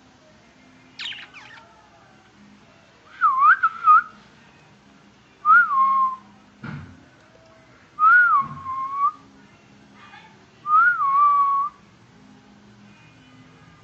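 Pet parrot whistling the same short phrase four times, each a quick rise and fall that settles on a held note. A brief high downward sweep comes about a second in, and a short knock near the middle.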